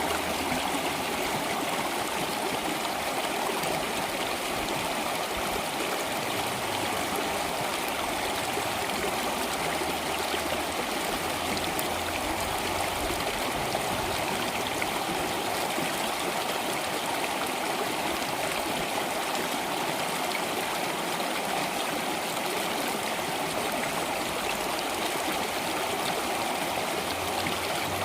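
Flowing stream water, running steadily without a break.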